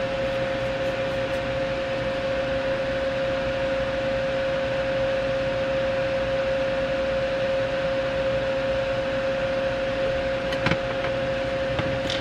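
Small electric fan running at full speed, a steady whirring hum with rushing air, just after spinning up. A few light clicks near the end.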